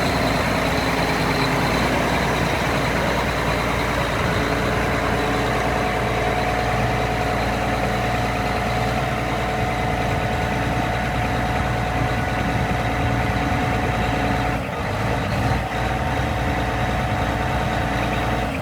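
Case IH STX 450 articulated four-wheel-drive tractor's diesel engine running steadily, with a brief dip in the sound about three-quarters of the way through.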